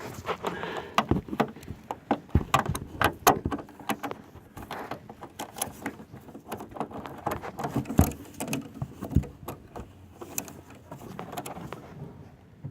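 Ratchet with a 15 mm socket working the rear strut mount's top nuts on the strut tower, giving irregular metallic clicks and clanks of the tool against the nuts and mount, thickest in the first few seconds and again about eight to nine seconds in.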